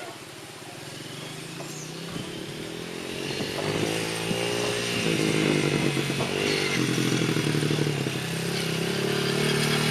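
Small motorcycle engine running, its pitch rising and falling with the throttle and growing steadily louder as the bike comes closer.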